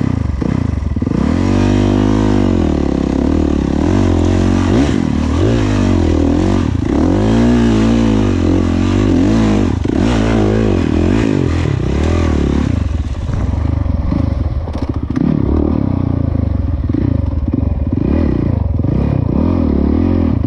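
Dirt bike engine being ridden hard, its revs rising and falling again and again every second or two as the throttle is worked.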